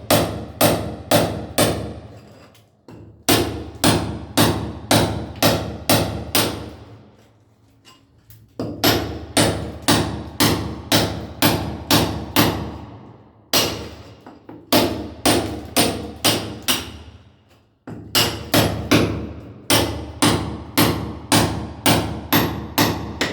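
Sledgehammer striking a cold chisel to break a masonry wall: sharp ringing blows, about two to three a second, in runs of several strikes with short pauses between runs.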